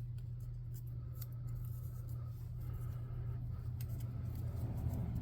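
Thin balsa wood strips being cut into short railroad ties: scattered small clicks and soft scraping of the cutting, over a steady low hum.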